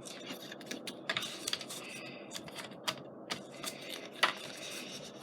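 Paper being folded and creased along score lines, with rustling and several sharp taps and clicks, the loudest about four seconds in.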